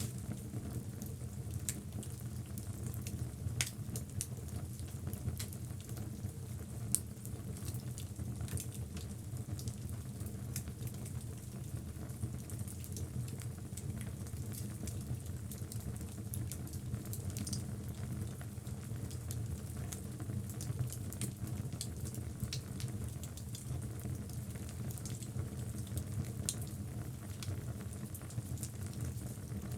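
Wood logs burning in a fireplace: a steady low rumble of flame with frequent small crackles and a few sharper pops.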